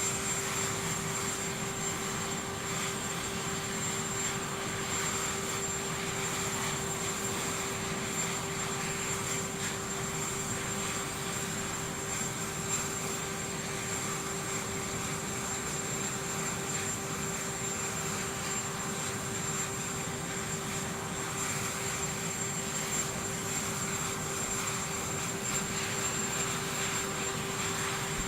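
Steady aircraft engine noise with a constant low hum and a high whine, holding unchanged throughout.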